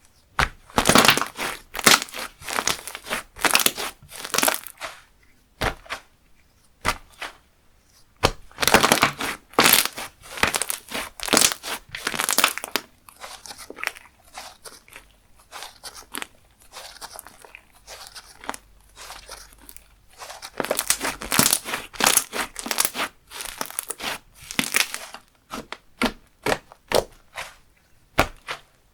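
Slime being squished, stretched and pressed by hand, giving rapid sticky clicks and pops. It comes in three busy bursts with quieter squishing between them.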